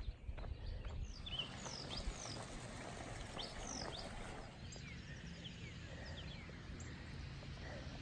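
Birds chirping: a scattered series of short, high, falling notes over a low, steady outdoor rumble.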